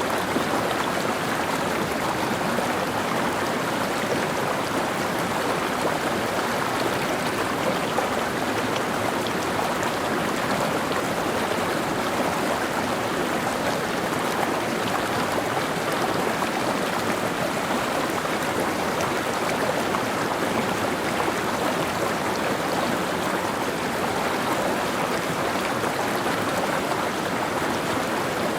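Mountain stream flowing over rocks, a steady, even rush of water.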